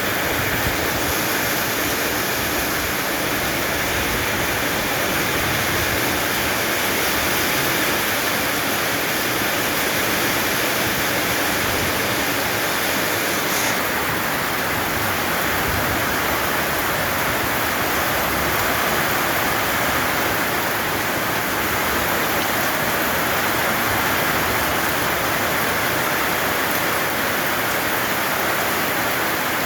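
Heavy rain falling in a steady downpour, a dense even hiss.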